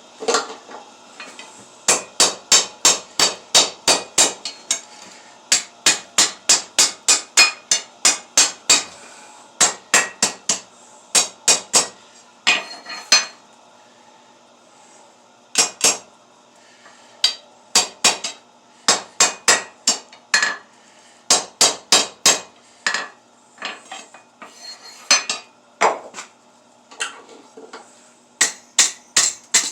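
Blacksmith's hand hammer striking steel on an anvil while forging table legs, in runs of quick blows about three to four a second, with short pauses between the runs.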